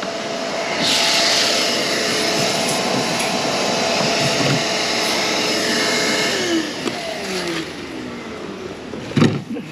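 A vacuum runs steadily, sucking leftover cotton seed out of a planter's seed meter. About seven seconds in it is switched off and its motor winds down, falling in pitch.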